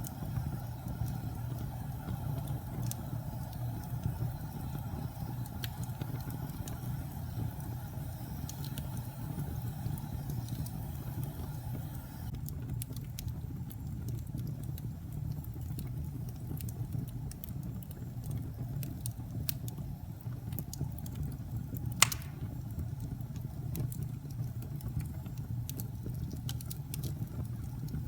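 Wood fire burning in a fireplace: a steady low rumble with scattered small crackles, and one sharp pop about 22 seconds in.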